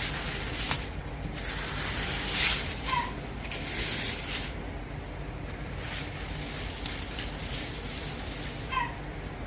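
Air-fed bedliner spray gun hissing in several bursts as the trigger is pulled and released, with a steady low hum under it. Two short high chirps come about three seconds in and near the end.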